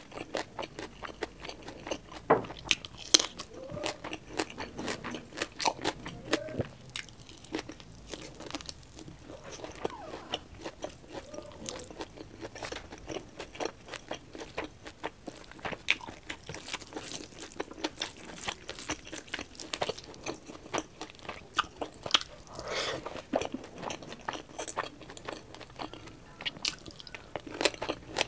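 Close-miked chewing and lip smacking on a mouthful of rice and pork curry, with many sharp mouth clicks and crunchy bites.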